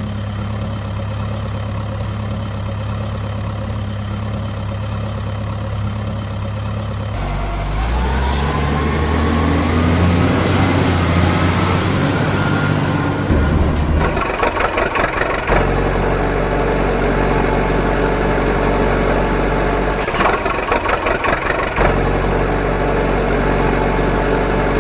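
Vehicle engines running, the sound changing about a quarter of the way in and again about halfway, with a rising whine like revving in between.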